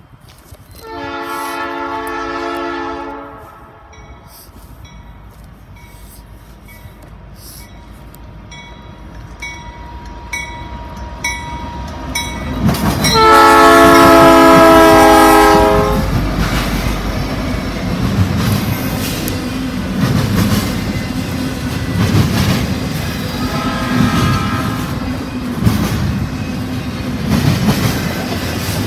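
Norfolk Southern diesel freight locomotive sounding its horn, a chord of several tones: one blast about a second in, then the loudest, longer blast about 13 seconds in as it passes, after a rumble that grows as the train approaches. Double-stack intermodal container cars then roll by with a steady rhythmic clickety-clack of wheels over the rail joints, and a fainter horn blast sounds near the end.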